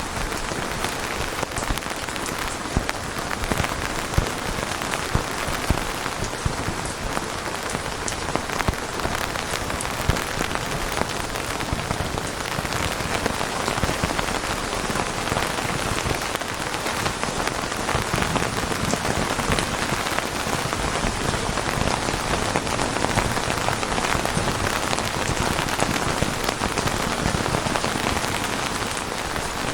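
Steady rain falling on a surface, a dense even hiss with many close, sharp drop ticks.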